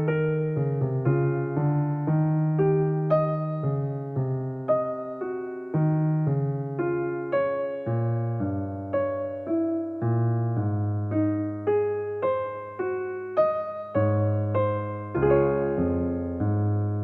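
Background piano music: a gentle melody of single struck notes, about two or three a second, each fading before the next.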